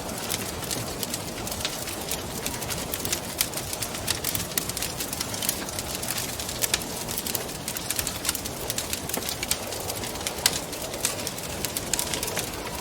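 Wood fire crackling in a fireplace, with many irregular sharp pops and snaps, over a steady rushing wind sound.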